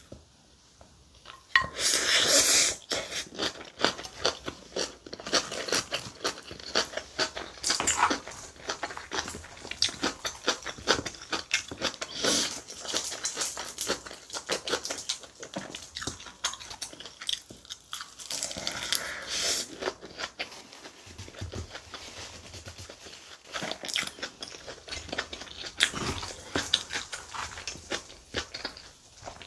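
Close-miked chewing of mouthfuls of kimchi bibimbap, wet rice and kimchi mashed in the mouth in many small clicks and crackles. It is loudest about two seconds in and again around eighteen seconds, with a wooden spoon scooping rice from the bowl between mouthfuls.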